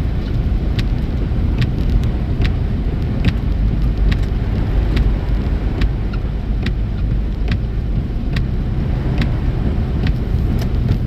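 Inside a car driving on a snowy road: a steady low engine and tyre rumble, with a short sharp tick repeating a little more often than once a second.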